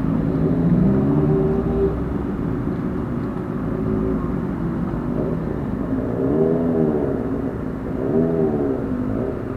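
Car engine running, its pitch swelling up and back down twice in the second half, as with brief revs.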